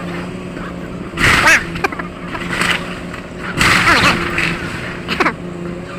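Excavator demolishing a building: its engine runs steadily while loud crunching and crashing of torn-off debris comes about a second in, again near the middle, and once more, shorter, about five seconds in.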